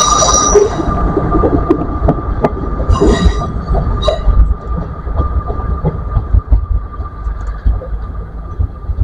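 Passenger train running past and pulling away, its rumble and wheel noise fading, with a steady high whine and scattered clicks from the wheels on the rails. Two brief high squeaks about three and four seconds in.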